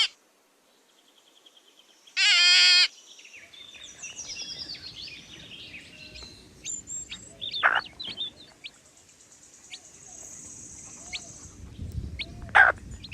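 A single bleat about two seconds in, then scattered short bird chirps over a low outdoor background.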